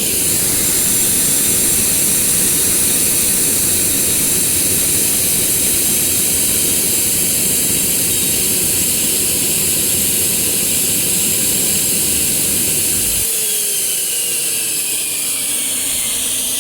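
Turbocharger-based jet engine running loudly on bottled gas, then stalling about three-quarters of the way through. The combustion noise cuts off suddenly and the turbo whines down in falling pitch. The stall is caused by too much gas fed in at once.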